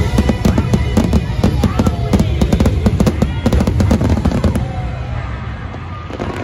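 Fireworks going off in a rapid volley of bangs and crackles over the show's music soundtrack, thinning out after about four and a half seconds.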